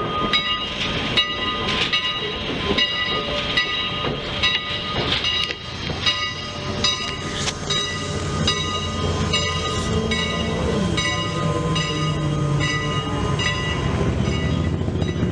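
Steam train with a regular ringing about two strokes a second, and a lower steady pitched sound joining about ten seconds in.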